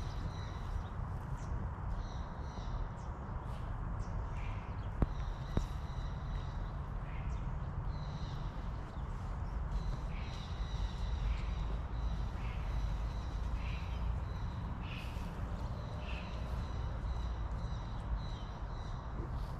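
Short calls from animals or birds, repeated many times, over a steady low rumble, with a couple of sharp clicks about five seconds in.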